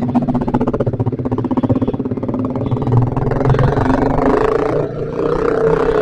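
Yamaha Vixion's single-cylinder four-stroke engine running under way. Its pitch climbs as the bike accelerates after about four seconds, with a brief drop in level just before the fifth second.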